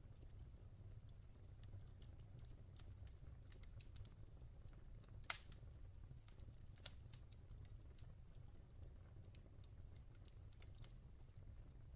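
Log fire crackling: scattered soft snaps and ticks, with one sharper pop about five seconds in, over a faint low rumble.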